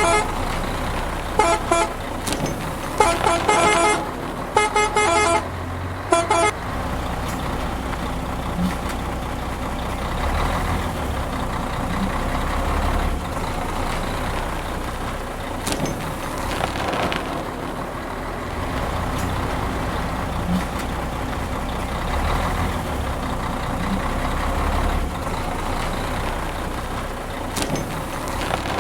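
Truck horn sounding in four short multi-tone blasts in the first few seconds, followed by a truck's engine running with a steady low rumble.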